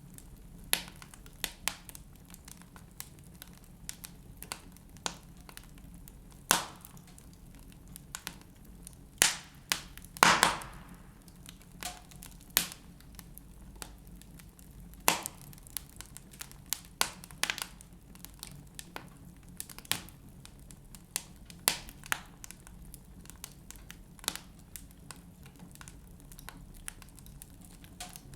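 Wood fire burning in a fireplace, logs crackling and popping at irregular intervals over a low steady hiss, with a cluster of louder pops about ten seconds in.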